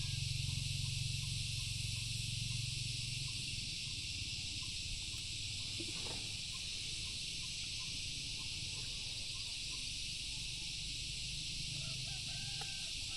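Outdoor nature ambience: a steady high hiss with short animal calls, likely birds, at the start and again near the end, and a soft crackle about six seconds in.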